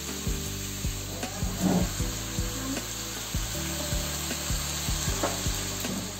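Green beans sizzling as they stir-fry in a wok, a steady even hiss, with background music of held notes and a light beat playing over it.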